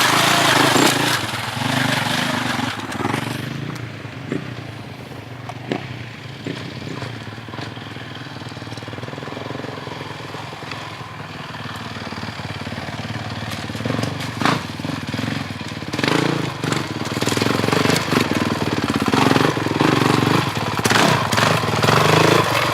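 Motorcycle engine running steadily, easing off in the middle and growing louder again during the last several seconds, with a few sharp knocks.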